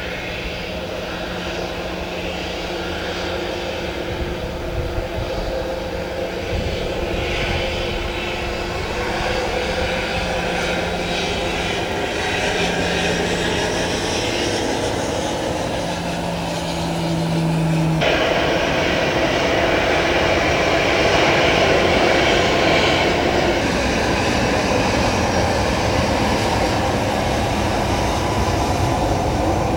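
Airliner engines running close by: a steady, loud drone with a low hum, slowly growing louder, that switches abruptly about eighteen seconds in to a fuller, louder engine noise without the hum.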